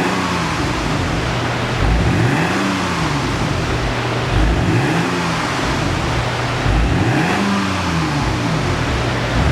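BMW E39 520i straight-six engine blipped repeatedly from idle through an aftermarket single variable exhaust, each rev rising and falling back to idle about every two and a half seconds.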